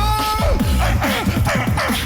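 Beatbox duo performing: a held, whistle-like vocal tone opens, then a steady rhythm of falling vocal sweeps over deep bass, about two a second.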